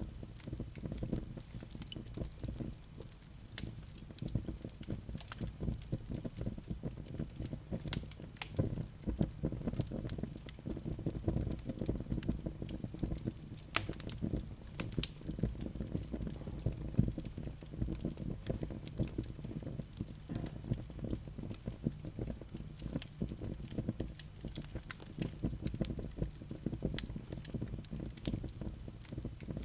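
Wood fire burning in a fireplace: a steady low rumble of flames with irregular sharp crackles from the burning wood.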